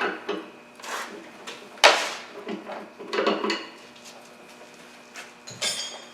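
Metal parts and tools being handled during reassembly work: a series of clicks, knocks and scrapes, with one sharp knock about two seconds in and a brief rattle near the end.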